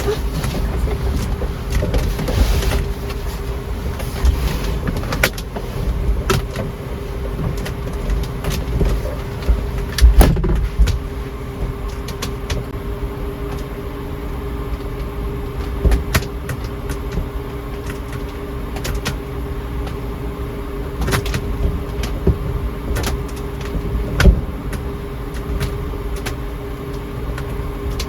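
Strong storm wind buffeting the parked kei-truck camper, heard from inside as a continuous low rumble with occasional sharp knocks and rattles from the shell.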